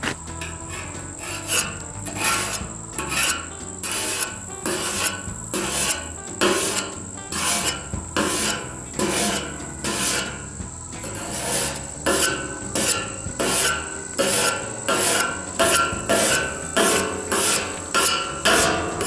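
Rhythmic back-and-forth strokes of hand abrasion on a metal part, about one and a half scrapes a second, as it is sanded or filed down by hand.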